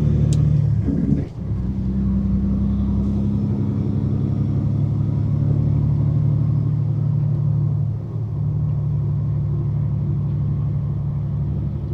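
Semi-truck diesel engine running steadily with a low hum, dipping briefly about a second in and changing pitch near eight seconds.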